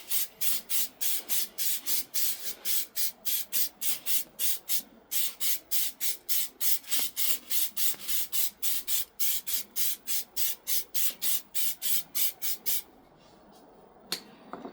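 Clear lacquer sprayed from a spray can in rapid short bursts, about four a second, stopping about 13 seconds in. A single click follows near the end.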